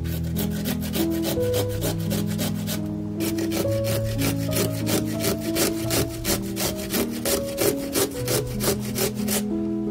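Carrots grated on a flat metal hand grater over a wooden cutting board: quick, rhythmic rasping strokes of carrot across the blades. The strokes pause briefly about three seconds in and stop near the end. Soft music with held notes plays underneath.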